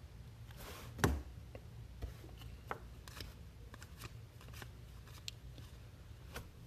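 Trading cards being handled and slid through by hand, with scattered light clicks and one louder tap about a second in.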